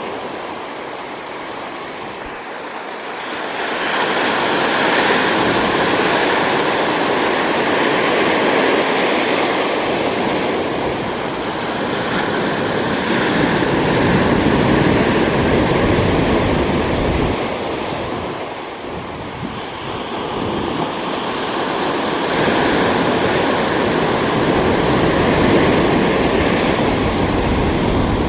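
Ocean surf washing in, rising in surges: it swells about four seconds in, eases off near the middle and builds again a few seconds later.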